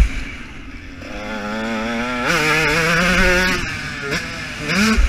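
KTM 125 two-stroke motocross engine, heard from on board, revving up hard, dropping suddenly in pitch as it shifts up a gear and pulling again, then closing the throttle with two short blips. Heavy thumps at the start and near the end.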